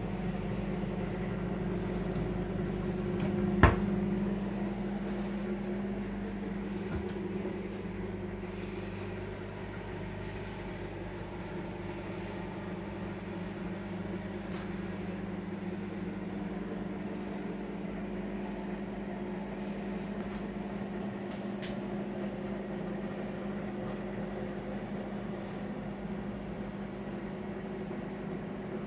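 Microwave oven running with a steady mains hum. A single sharp click or knock sounds about three and a half seconds in.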